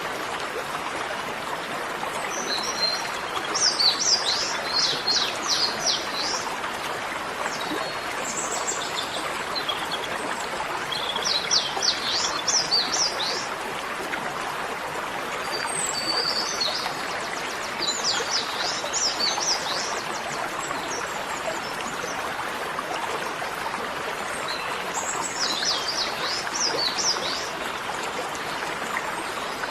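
A small bird singing short, rapid trilled phrases about five times over a steady rushing background noise.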